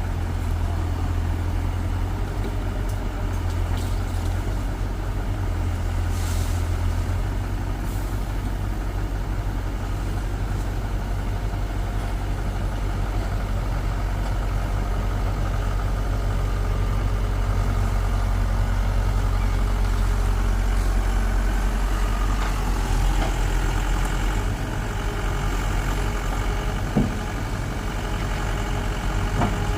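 Heavy diesel engine running steadily with a deep, low drone, with a short sharp knock about two-thirds of the way in.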